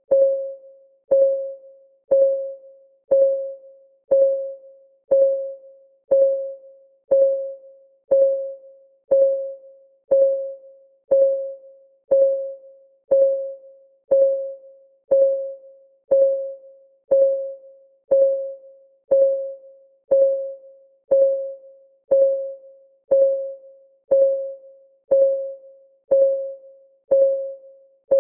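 Clock-ticking sound of a countdown timer: one tick every second, steady and even, each a short click with a mid-pitched ringing tone that dies away quickly.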